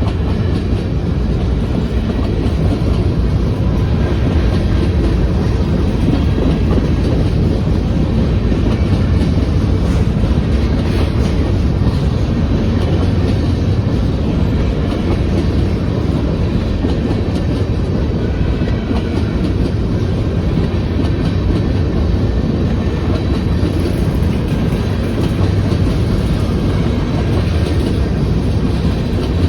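Empty grain hopper cars of a freight train rolling past, a steady rumble with the clickety-clack of wheels over the rail joints.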